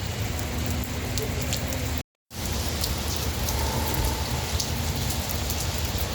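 Steady rain falling on hard surfaces, with scattered sharp drop ticks; the sound cuts out for a split second about two seconds in.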